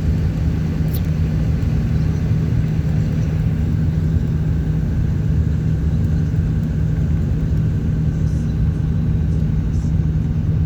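Steady low road and engine rumble of a car driving, heard from inside the cabin, with a constant low hum.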